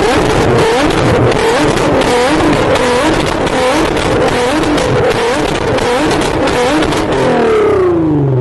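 Car engine revved in a quick run of repeated blips, its exhaust popping and crackling throughout, then the revs falling away near the end.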